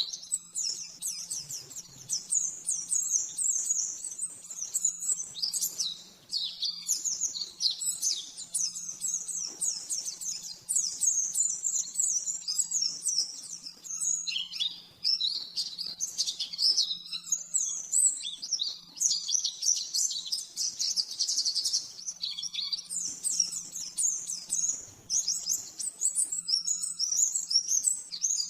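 White-eye (pleci) singing a long, rapid, high-pitched warbling song in quick run-on phrases with only brief pauses.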